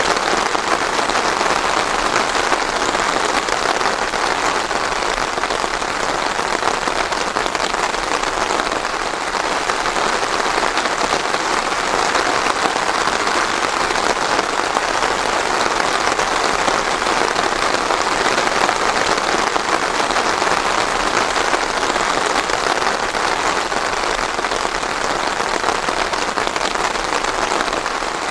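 Steady rain falling, without thunder: an even, unbroken patter of many drops on a surface.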